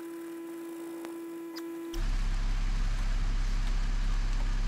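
Low, steady rumble of the Jeep's engine idling. For the first two seconds it drops out abruptly, leaving only a steady hum tone, then it comes back about two seconds in.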